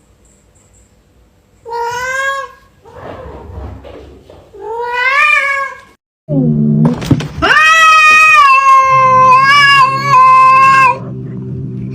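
Domestic cat meowing: two short meows, the second rising, then a long, loud, drawn-out meow held for several seconds.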